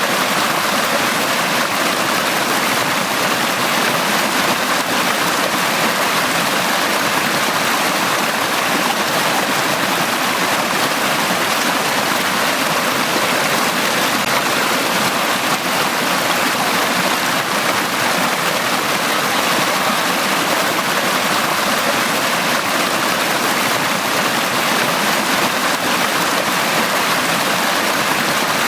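Forest stream running steadily over rocks, a continuous rushing and babbling of water.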